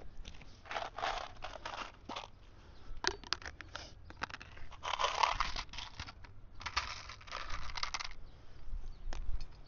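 Handling of roofing nails and asphalt shingles: four bursts of rustling and scraping about a second long each, with a run of small sharp clicks a few seconds in.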